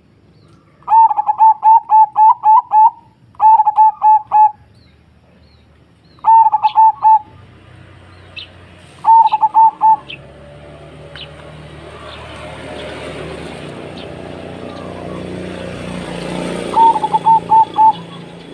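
Zebra dove (perkutut) singing: five phrases of quick, clipped cooing notes repeated in rapid runs, separated by short pauses. In the second half a background rush of noise swells and then fades.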